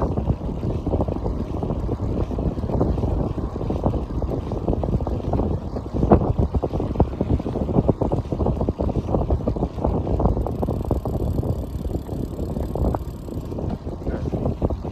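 Wind buffeting the microphone on a moving bicycle: a steady, rough low rumble that flutters constantly.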